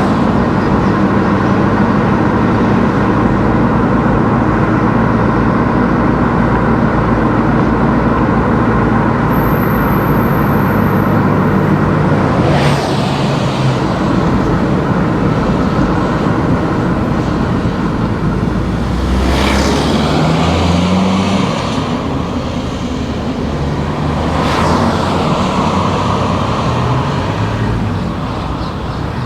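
A car's engine and road noise while driving, the engine pitch stepping up and down with gear changes and throttle. Three loud whooshes of passing traffic come at about twelve, nineteen and twenty-four seconds in.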